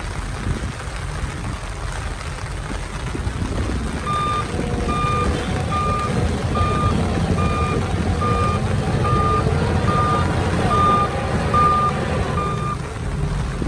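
Reversing alarm of a heavy earthmoving vehicle: about eleven even beeps, one roughly every 0.8 seconds, starting about four seconds in and stopping near the end, over the steady low rumble of the vehicle's engine.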